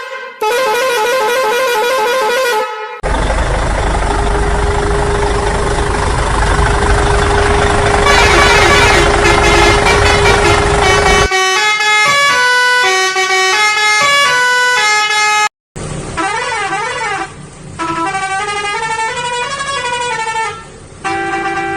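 A string of loud vehicle-horn sounds, one after another: a warbling horn, then a stretch of engine noise with a steady horn tone, then musical horns playing stepping tunes, and near the end gliding, siren-like horn tones.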